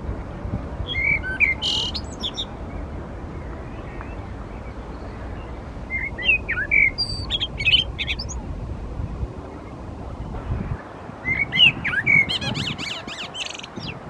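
A songbird singing the same short phrase three times, several seconds apart, each phrase a few clear whistled notes ending in a rapid high trill. A low background rumble underneath drops away about two-thirds of the way through.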